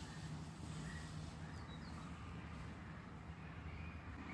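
A few faint, short bird chirps over a steady low background rumble of outdoor ambience.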